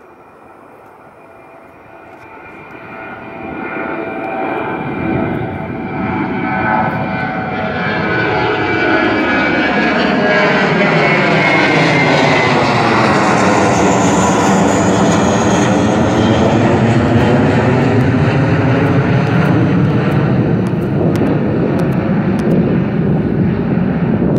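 Jet airliner's engines on departure: the sound builds over the first several seconds, with a high fan whine, then stays loud and steady as the plane passes close by, its tone sweeping down and back up.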